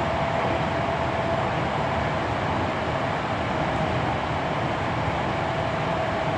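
Hankyu 7300-series electric train running at steady speed, heard from the floor inside the passenger car: continuous rolling rumble of wheels on rail with a faint steady whine.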